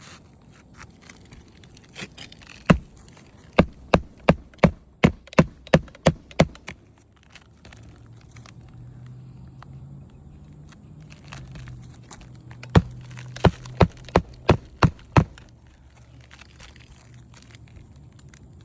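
Hammer driving roofing nails into asphalt shingles: a run of about ten sharp strikes at roughly three a second, then a pause, then another run of about seven strikes.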